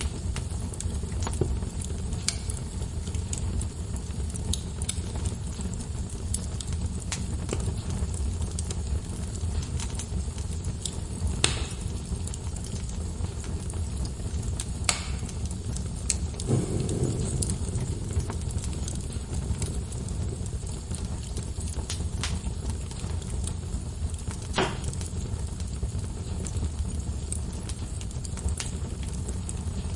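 Wood fire burning in a fireplace: a steady low rumble of flames with sharp crackles and pops from the logs at irregular intervals.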